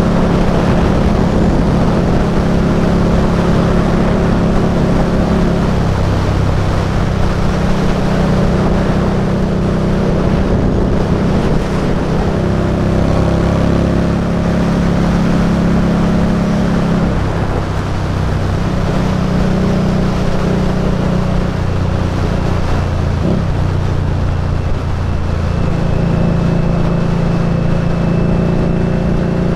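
Indian Scout Bobber's liquid-cooled V-twin engine running under way at cruising speed, its pitch stepping up and down every few seconds with throttle and speed changes. There is steady wind rush on the microphone.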